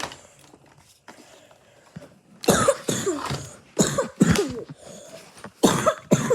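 A person coughing hard several times in quick pairs, starting about two and a half seconds in.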